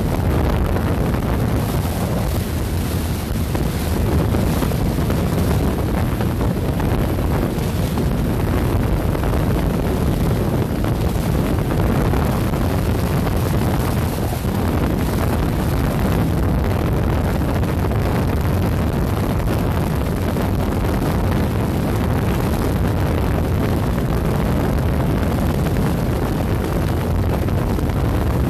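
Steady wind rush on the microphone over the motorcycle's engine and road noise, riding at highway speed.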